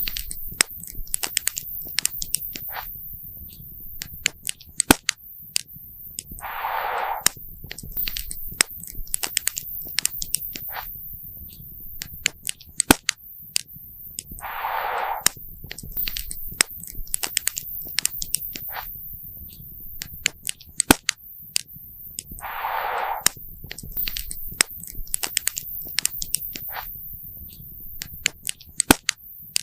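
Campfire wood crackling and popping, with frequent sharp snaps over a low rumble. A brief rush of noise recurs about every eight seconds.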